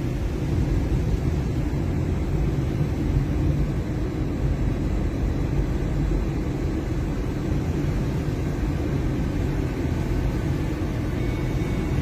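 Steady low rumble of a vehicle driving, with no sudden events.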